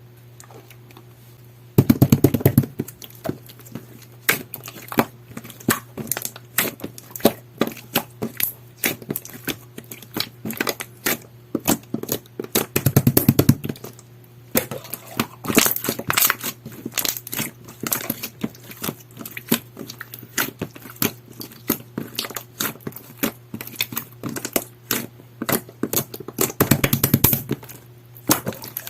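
Jelly-textured pearl slime being pressed and squished by hand, making rapid sticky clicks and little pops. It starts about two seconds in, with louder, denser flurries of clicks near the start, in the middle and near the end.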